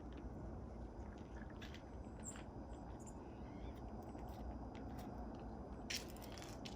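Quiet outdoor ambience heard through an open window: a steady low rumble and hiss, with scattered faint clicks and a brief high chirp about two seconds in.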